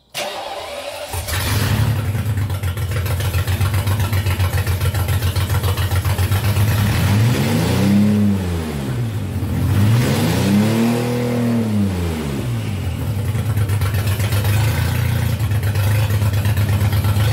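BMW M73 V12 engine cranked by its starter and catching about a second in, then idling. It is revved up and back down twice in a row around the middle, then settles back to a steady idle.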